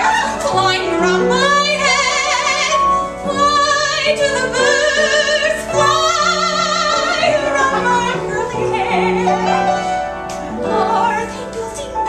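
A female voice singing in an operatic soprano style with a wide, fast vibrato, holding and sliding between high sustained notes, over piano accompaniment.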